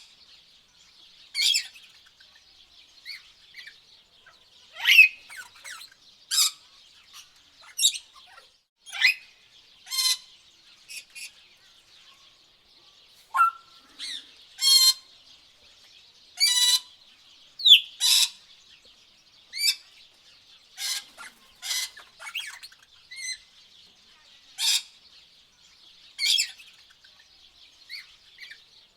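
Tropical birds calling: short, sharp squawks and chirps every second or two, over a steady faint high-pitched background.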